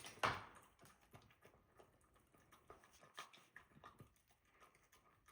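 A dog eating its breakfast: faint, irregular clicks and ticks of eating, with one louder knock just after the start.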